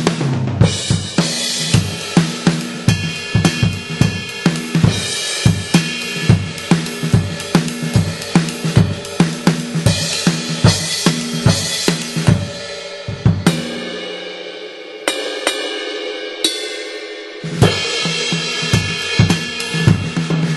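Electronic drum kit triggering sampled acoustic drums, a DW kit from BFD2 with Gen16 cymbals and hi-hat, played as a steady groove of kick, snare, hi-hat and cymbals. About two-thirds of the way in, the kick and snare stop for a few seconds while cymbals ring out. Then the groove starts again.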